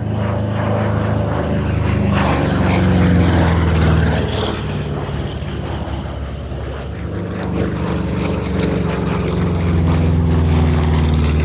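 Piston-engined propeller aircraft flying a display pass, its engine note falling in pitch as it goes by in the first few seconds, then growing louder again near the end.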